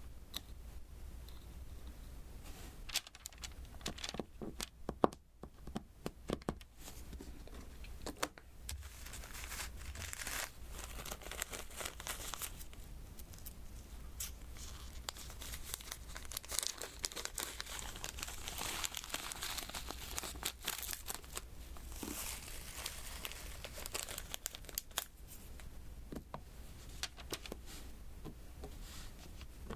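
Diamond painting worked close to the microphone: many small sharp taps as resin drills are picked up and pressed onto the sticky canvas with the applicator pen, with longer stretches of dry rustling in the middle.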